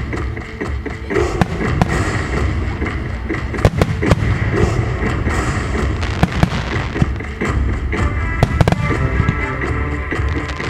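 A rapid barrage of fireworks, many sharp bangs in quick succession over a continuous low rumble, with music playing along. The music stands out more clearly in the last few seconds.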